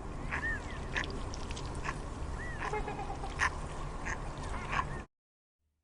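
Birds calling: short, harsh calls repeated every half second to a second, with a couple of rising-and-falling whistled notes, over a steady background hiss. The sound cuts off abruptly about five seconds in.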